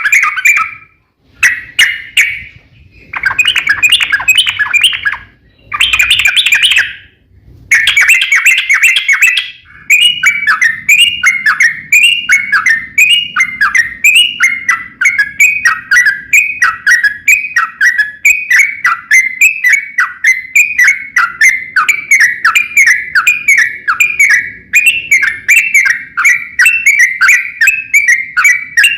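Yellow-vented bulbul song: dense chattering bursts with short gaps for the first ten seconds, then a long unbroken run of quick, falling notes, about two a second.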